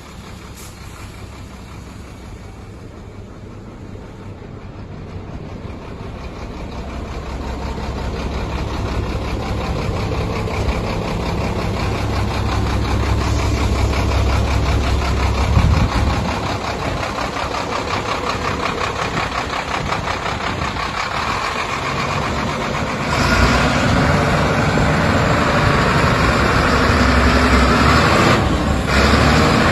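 Sinotruk HOWO dump truck's WD615.47 inline-six turbocharged diesel engine running steadily. It grows louder over the first dozen seconds, drops back suddenly about halfway through, and gets louder again a few seconds later.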